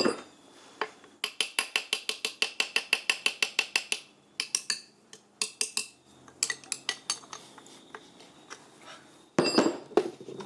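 Rapid light metallic taps on tractor parts, about seven a second for roughly three seconds, then shorter runs of clinks and a louder clatter near the end.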